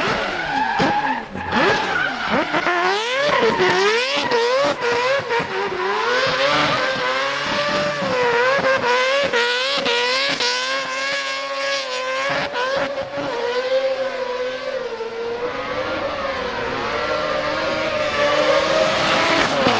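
Mazda RX drift car's rotary engine at high revs, its pitch rising and falling quickly and repeatedly as the throttle is worked through a drift.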